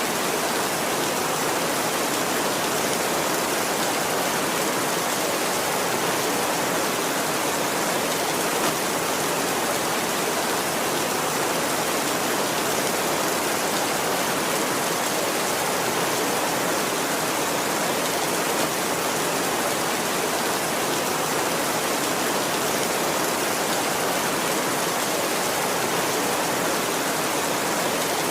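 Heavy rain falling steadily: an even, unbroken hiss of many drops, with no thunder.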